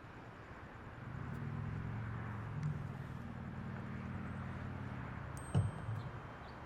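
A low, steady engine hum that comes in about a second in and holds for about four seconds, followed by a sharp knock and a smaller second one near the end.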